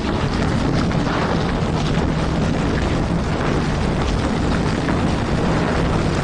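Loud, steady industrial machinery noise: a dense rumbling rush with a faint low hum running under it.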